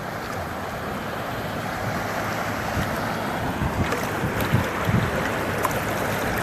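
Floodwater rushing and sloshing as a steady wash that grows slightly louder, with wind buffeting the microphone and a few low thumps.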